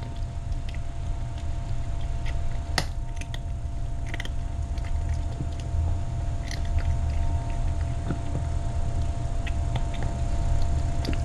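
A cat eating a snack: scattered small chewing clicks over a steady low hum.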